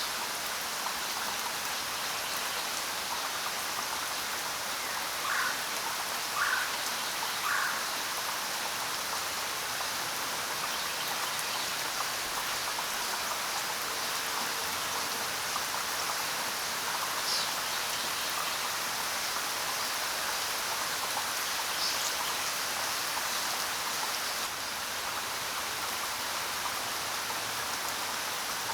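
Steady rain falling. A bird gives three short chirps about five to eight seconds in, and two brief higher chirps later.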